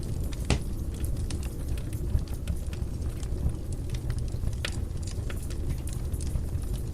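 Wood fire burning in a fireplace: a steady low rumble with irregular crackles and pops, two of them sharper, about half a second in and near the two-thirds mark.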